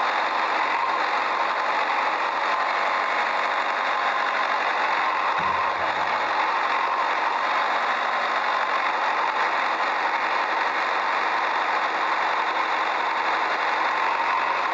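Steady engine-like running noise that holds an even level throughout, with a short low thump about five and a half seconds in.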